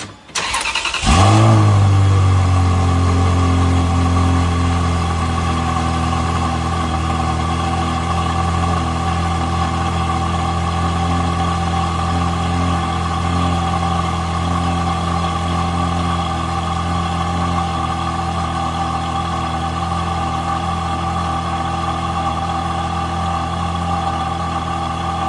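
Ferrari 360 Spider's 3.6-litre flat-plane-crank V8 cold start: a brief crank, catching about a second in with a loud flare, then settling into a steady cold idle.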